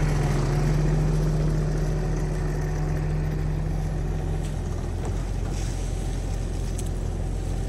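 Compact excavator's diesel engine running steadily as the machine works. Its low steady hum drops away a little past halfway through.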